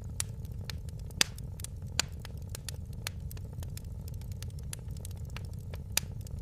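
A fire in a fireplace crackling over a steady low rumble, with frequent small snaps. Sharper pops come about a second in, at two seconds and near the end.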